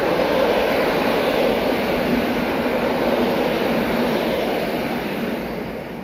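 EN57AL electric multiple unit running past, a steady loud noise of wheels on rails that fades away near the end.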